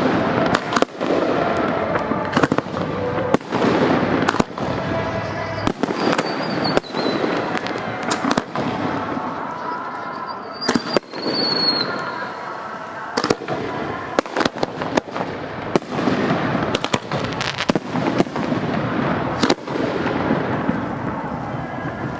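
Fireworks display: a rapid, irregular string of shell bursts and bangs, with music playing underneath and a brief high whistle twice.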